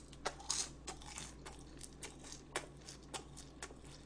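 Close-up eating sounds: a scatter of soft crunches and clicks at irregular intervals as food is bitten and chewed.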